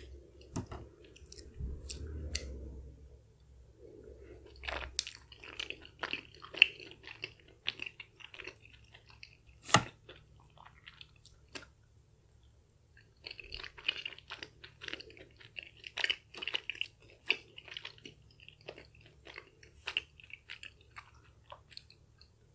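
Close-miked chewing of chewy Korean spicy rice cakes (tteokbokki), with wet, sticky smacking in two long runs and a short pause between them. A metal fork scrapes the metal tray near the start, and there is one sharp click about ten seconds in.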